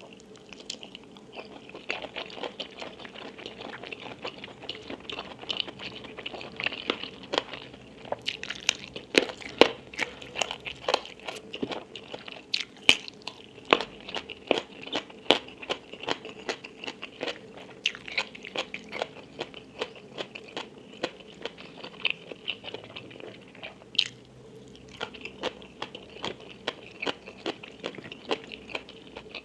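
Close-miked eating: a person biting and chewing crunchy food with rapid, sharp crunches and wet chewing, building up about two seconds in and carrying on steadily.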